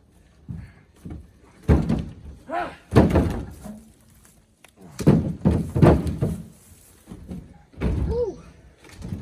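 Cherry firewood blocks being tossed out of a pickup bed, thudding and knocking onto the pile and against the truck, several hits in quick clusters with pauses between.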